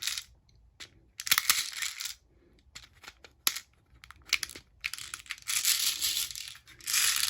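Airsoft BBs rattling through a plastic speed loader as they are pushed into a Sig Sauer ProForce M17 magazine, in several rattling bursts with scattered clicks of plastic parts between them.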